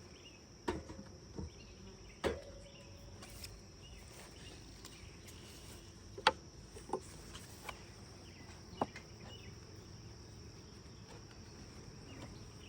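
A steady high-pitched insect trill, with several sharp knocks and clicks as wooden hive frames and a hive tool are handled during a beehive inspection. The loudest knocks come about two and six seconds in.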